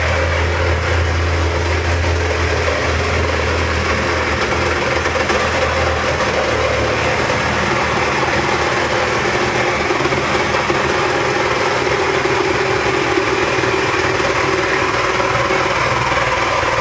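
A handheld power tool running steadily for the whole stretch, cutting into the refrigerator.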